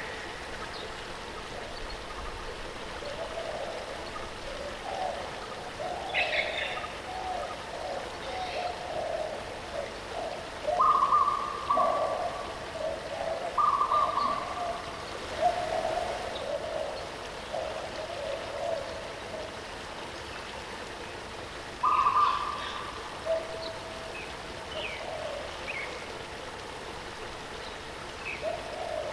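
Steady rush of a waterfall with birds calling over it: a run of short, low repeated notes through the middle, a few clear whistled notes, and high chirps now and then.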